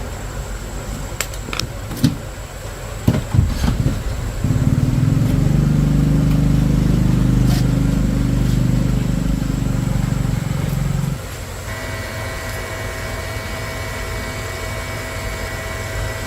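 A motor runs loudly with a low, steady drone for about six seconds and then cuts off abruptly, after a few knocks. Afterwards a quieter, steady, higher hum continues.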